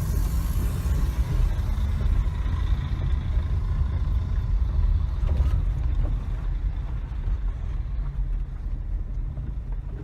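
Steady low rumble of a moving car's engine and tyres on the road, with a faint high whine that fades over the first few seconds.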